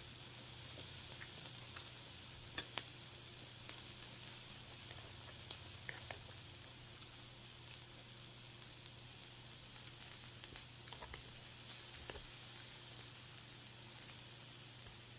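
Food sizzling on a grill: a steady frying hiss with scattered small clicks and taps, the sharpest about eleven seconds in.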